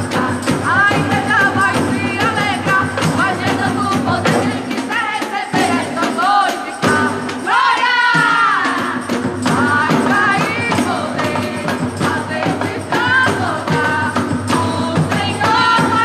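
Live gospel worship band playing and singing, with tambourine and drums.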